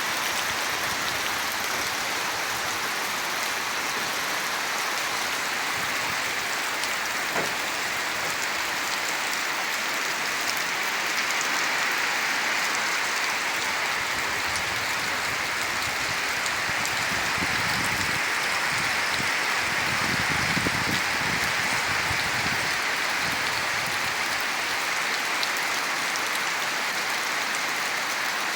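Heavy rain falling steadily, a dense even hiss of drops hitting surfaces, with a faint low rumble for a few seconds about two thirds of the way through.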